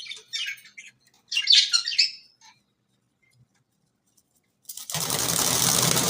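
Budgerigar chirping in short bursts over the first two seconds, then a louder, dense rushing sound begins about five seconds in.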